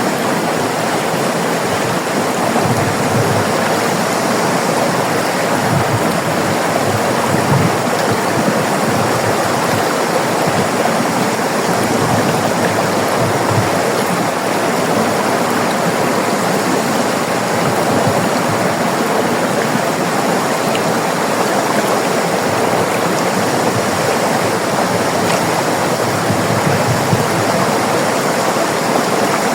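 River water rushing and babbling over rocks, a steady, even flow with no breaks.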